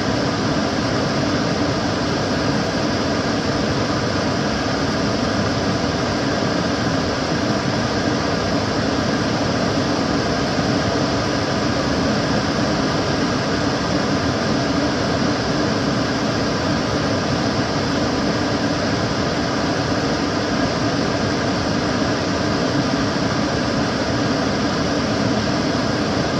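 Kitchen cooker hood extractor fan running steadily, an even whooshing airflow with a faint constant hum.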